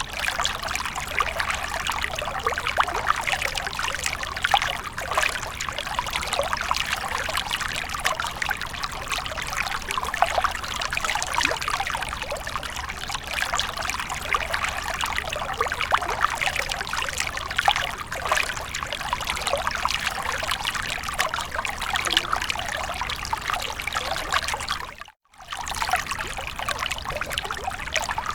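Water fountain splashing and trickling steadily. Near the end the sound cuts out completely for a fraction of a second, then resumes.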